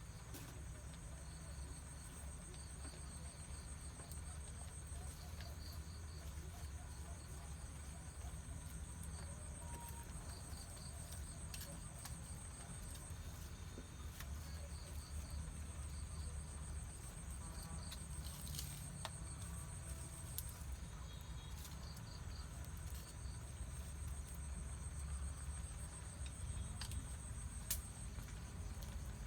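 Insects chirping steadily: a high, continuous trill with groups of shorter pulsing chirps beneath it, and a few faint clicks.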